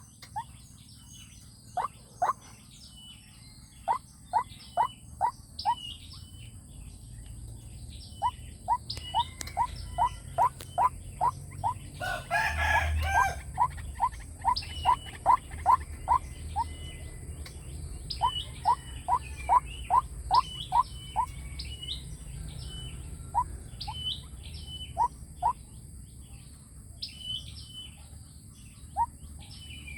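White-breasted waterhen calling: bouts of short, evenly repeated notes, about two to three a second, with pauses between bouts. Higher short chirps run alongside, and a steady high hiss sits underneath.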